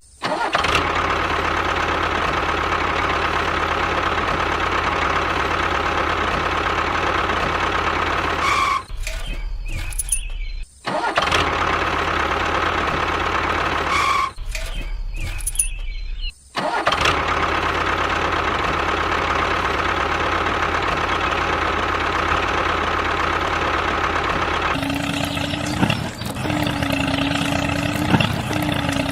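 A small motor running steadily, broken off by a few abrupt cuts; near the end it changes to a different sound with a lower, steady tone.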